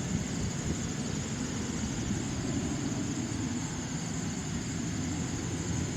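Steady low rumble of a distant jet aircraft's engines running.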